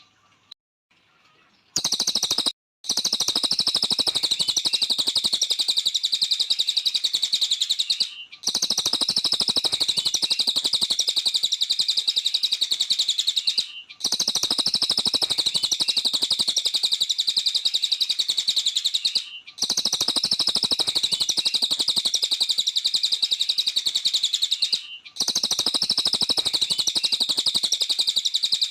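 A cililin songbird singing continuously: a dense, rapid stream of high chirps and twitters. It falls silent briefly about every five to six seconds before starting again.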